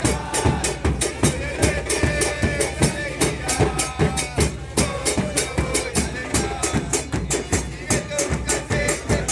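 Supporters' drum band playing a fast, steady beat of bass drums and snare-type drums, with many voices chanting along.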